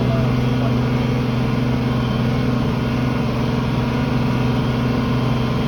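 Tractor engine running at a steady speed under load while pulling a field cultivator, an even low drone with no change in pitch.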